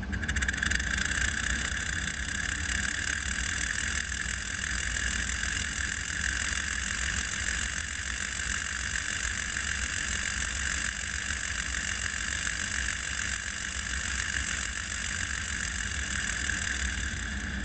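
Model seven-cylinder rotary steam engine running steadily, a continuous whir with a strong high-pitched whine.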